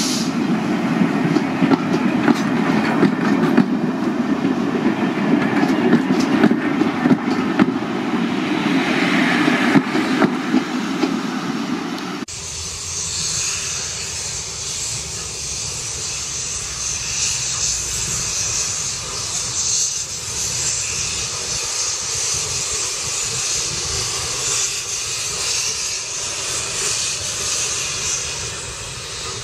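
Railway passenger coaches rolling past close by: a low rumble from the wheels with frequent clicks over the rail joints. About twelve seconds in the sound changes to a steady hiss of steam from an approaching steam locomotive, its cylinder drain cocks open, over a faint low rumble.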